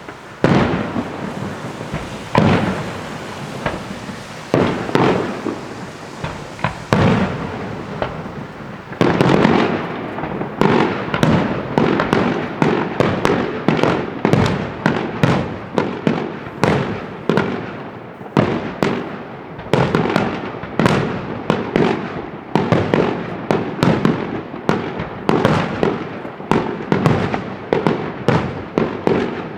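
Fireworks display: a few scattered bangs of bursting shells, then from about nine seconds in a dense barrage of bangs, several a second, running on without a break.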